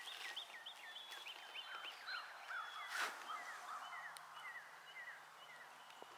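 Small birds chirping: a busy run of short, high, downward-slurred notes from several birds at once, with one brief crunch about three seconds in.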